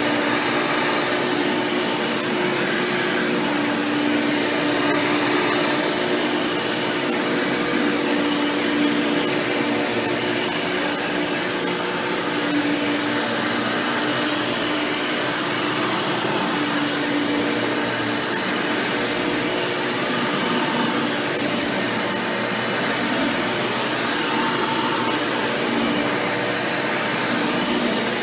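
Hoover Power Drive Supreme upright vacuum cleaner running steadily while vacuuming, its motor fitted with an upgraded 20-blade impeller fan. A continuous rush of air with a steady motor tone that wavers slightly.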